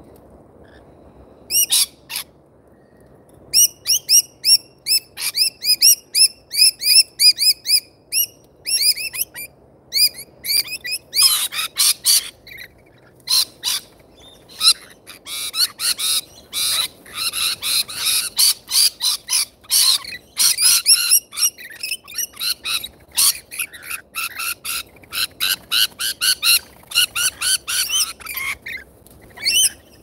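Birds calling at a seed feeder. After a short quiet start comes a run of short repeated falling chirps, about two or three a second. From about the middle on there is near-continuous shrill screeching, typical of a flock of rainbow lorikeets feeding.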